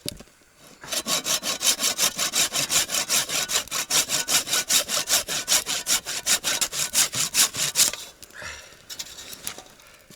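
Hand saw cutting through a small wooden offcut in quick, even back-and-forth strokes, trimming its end square. The sawing stops about eight seconds in.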